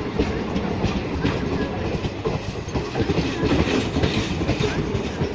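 Express passenger train rolling steadily past, its wheels clattering over the rail joints with a continuous rumble.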